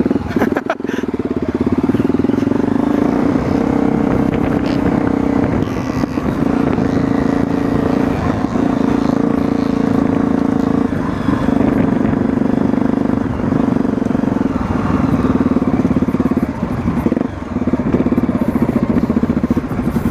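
Trail motorcycle's engine running steadily under throttle while being ridden, easing off briefly about three-quarters of the way through.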